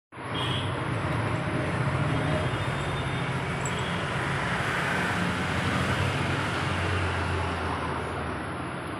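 Car air-conditioning compressor running with the engine: a steady low hum under an even mechanical noise.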